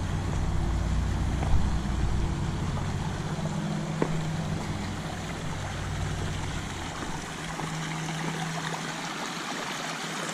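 A motor vehicle's low engine hum that fades away around the middle, over a steady rush of flowing creek water.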